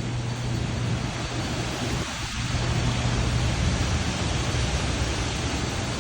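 Portable generator running steadily: a constant low hum under a broad rushing noise.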